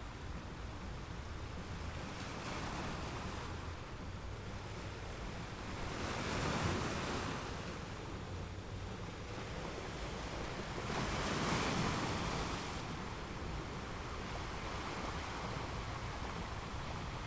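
Sea water washing past a moving cruise ship, with a steady low rush of wind; the wash swells twice, about six and eleven seconds in.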